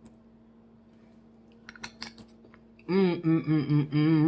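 A few light clicks, then a woman humming wordlessly in a wavering tone for about a second and a half near the end.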